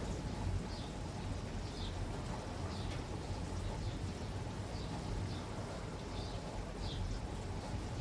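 Steady rain falling, with a bird calling over it in short, high, falling chirps about once a second.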